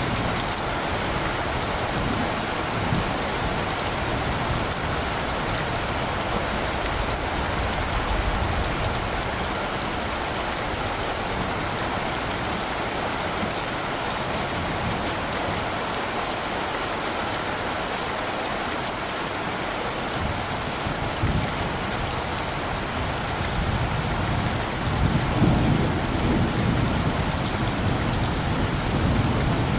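Steady rain falling on surfaces, a dense hiss with close drops crackling through it. A low rumble of distant thunder swells near the end.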